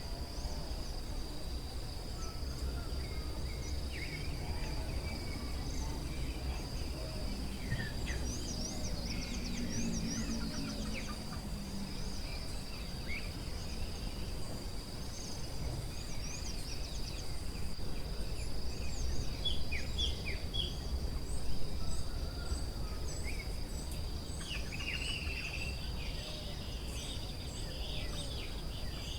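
Forest ambience: a steady, high insect drone with many short bird chirps and calls over it, including a run of evenly repeated high chirps in the second half, above a low, steady background noise.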